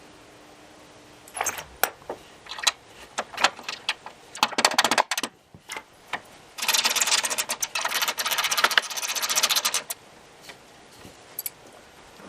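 Hand tools and metal hardware clinking while bolts and safety nuts are fitted, then about three seconds of rapid clicking, like a ratchet or wire-twisting tool at work.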